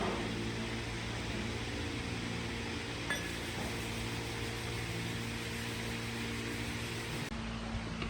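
Steady mechanical hum of a running motor or machine, with a faint click about three seconds in.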